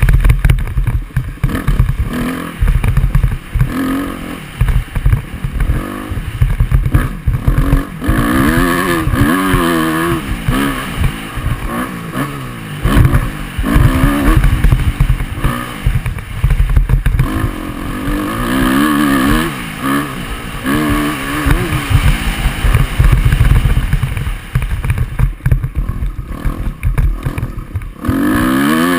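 Motocross dirt bike engine revving up and down again and again as the bike is ridden, over a heavy, choppy low rumble with clattering knocks.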